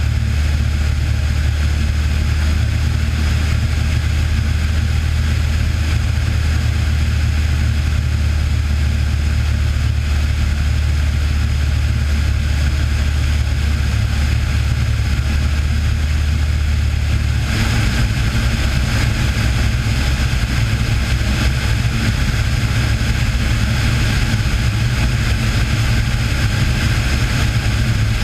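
Cessna 182's piston engine and propeller droning steadily. About two-thirds of the way through, the sound shifts abruptly: the deep hum weakens and the higher hiss grows.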